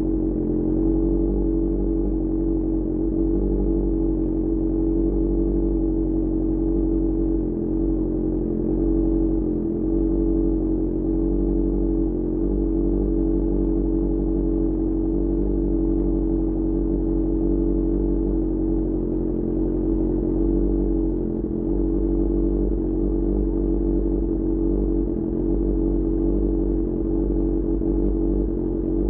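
QJMotor SRK600's inline four-cylinder engine running steadily through a Pure Austin Racing GP1R aftermarket exhaust, at a near-constant pitch with a few brief small dips.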